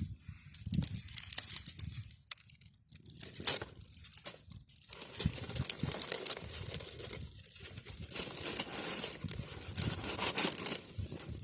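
Dry twigs and brush rustling and crackling irregularly while a small cooking fire is laid and lit on the ground.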